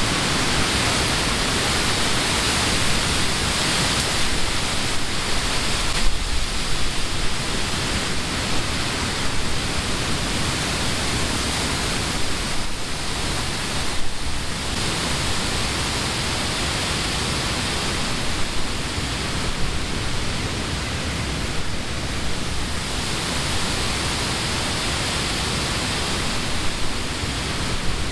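Wind blowing through the leafy trees of a summer wood: a steady hiss of moving leaves that swells a little now and then.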